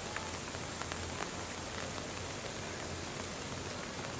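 Steady rain falling on tree leaves, with scattered individual drops ticking through the hiss.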